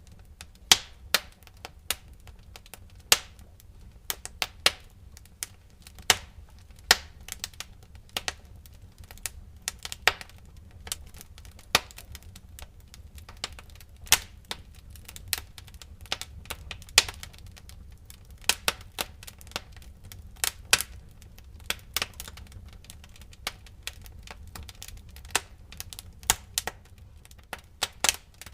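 Wood fire burning in a fireplace: irregular sharp pops and snaps, several a second and of varying loudness, over a steady low rumble.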